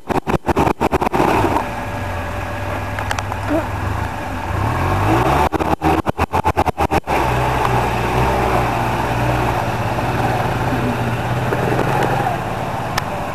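2007 Polaris Ranger XP utility vehicle's engine running, revving up briefly about five seconds in, then holding steady. The sound cuts in and out rapidly at the start and again around six seconds in.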